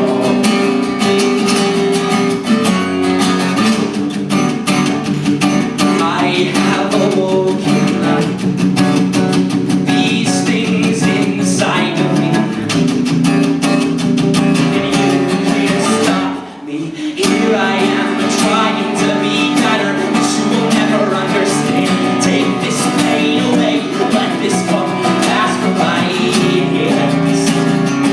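Band playing a song, with strummed guitar to the fore. The music breaks off briefly about halfway through, then comes straight back in.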